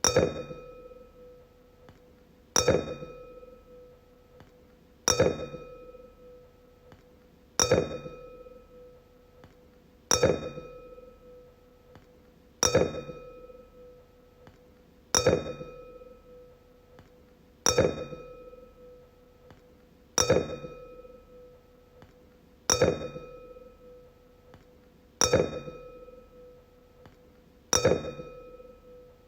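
Wine glass struck repeatedly, about once every two and a half seconds, each strike ringing with a clear tone that fades over a couple of seconds.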